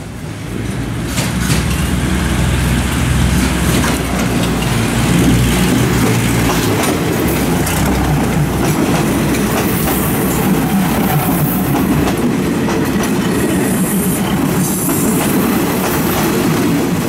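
A stainless-steel diesel railcar train rolls slowly past close by as it pulls into the station. Its engine rumbles low for the first several seconds, and the steady clatter of wheels over the track carries on throughout.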